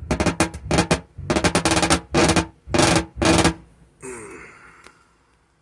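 Rapid bursts of loud banging on a wooden subwoofer enclosure, the knocks coming in six quick clusters with a hollow, drum-like ring from the box, as it is worked apart at its failed glued-and-nailed joints. A short scrape follows at about four seconds.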